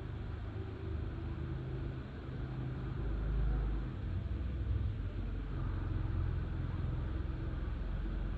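Cat purring, a steady low rumble that swells a little about halfway through.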